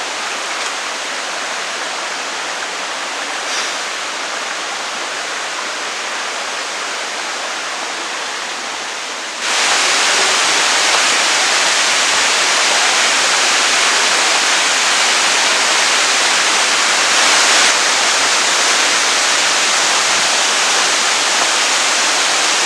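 Waterfall rushing steadily. About nine seconds in, the rush abruptly becomes louder and brighter, then holds steady.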